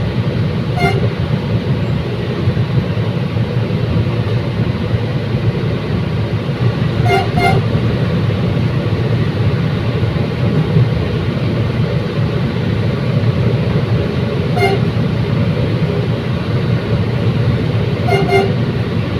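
Commuter train running, a steady rumble of engine and wheels on rail. Short horn toots cut through it: once about a second in, twice in quick succession around seven seconds, and once more near fifteen seconds.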